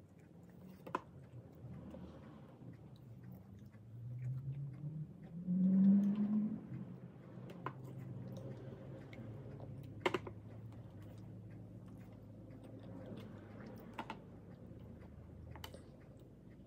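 A person chewing a mouthful of rice and meat eaten by hand, with a few sharp mouth clicks. A low hum rising in pitch comes about four to six seconds in and is the loudest moment.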